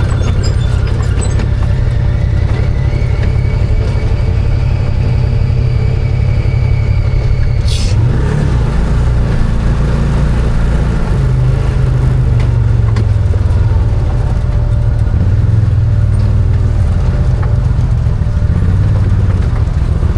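Arctic Cat Wildcat 1000 side-by-side engine running steadily under load while driving, with a faint high whine over it that stops about eight seconds in, at a single short sharp click or knock.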